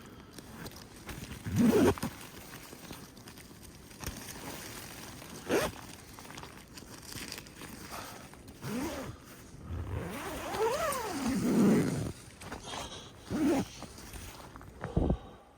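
A tent door zipper being pulled open in several strokes. Its pitch rises and falls with the speed of each pull, the longest pull about two-thirds of the way through, with shorter rubs and knocks in between.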